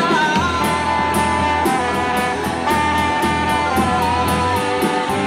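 Live rock band playing an instrumental passage: held, slowly shifting lead notes over bass and a steady cymbal beat of about three strikes a second.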